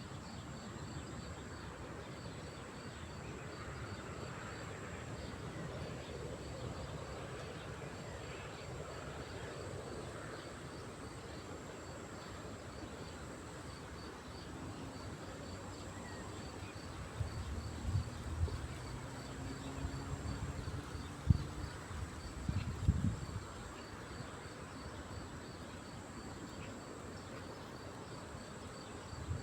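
Lakeside ambience of insects trilling: a steady high-pitched whine with a fast, regular pulsing chirp beneath it. Between about two-thirds and three-quarters of the way through there are several low thumps and rumbles.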